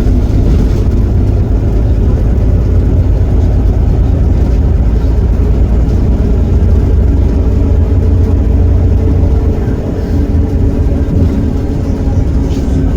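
Iveco Cursor 8 six-cylinder diesel of a Heuliez GX327 city bus running steadily with a deep, low engine sound, easing off slightly about ten seconds in.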